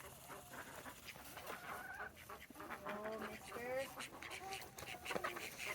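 Chickens clucking faintly, with short rising and falling calls and scattered clicks.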